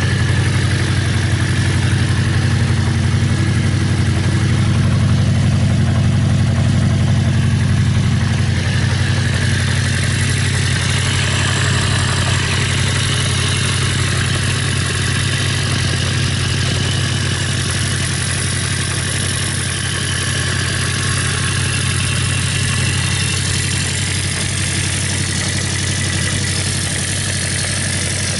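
Honda CB400F Four's 408cc air-cooled inline-four engine idling steadily through an aftermarket exhaust.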